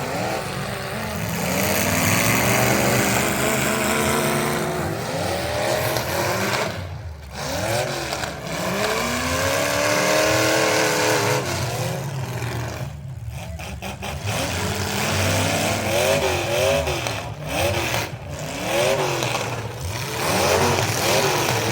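Racing truck engines revving up and down, the pitch rising and falling again and again as they accelerate and back off, with a few brief drops in the sound along the way.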